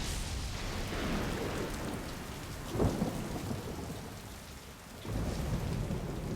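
Thunderstorm: steady heavy rain with thunder, a sudden loud crack about three seconds in and a low rumble swelling up about five seconds in.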